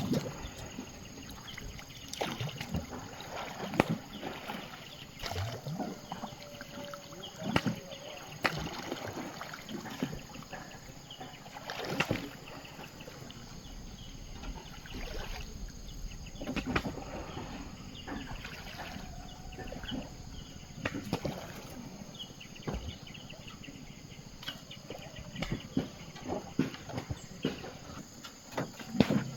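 Water splashing and sloshing around a small boat or bamboo raft, with irregular knocks and clicks every second or two.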